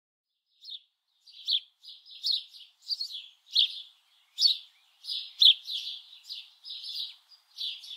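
Sparrow chirping: a steady run of short, high chirps, about two a second.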